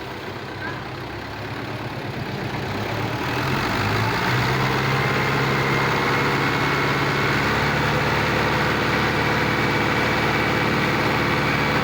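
Tractor engine running, with revs and loudness rising over a couple of seconds, then held steady at a higher, louder pitch.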